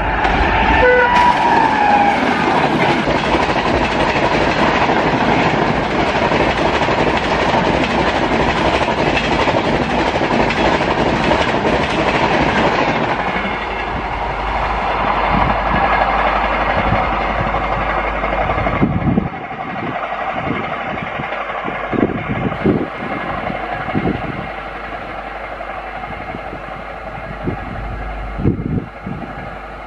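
Express train hauled by an electric locomotive passing at high speed: a loud rush of wheels clattering over the rails for about twelve seconds, with a short horn note falling in pitch about a second in. It then fades as the train draws away, leaving scattered low thumps near the end.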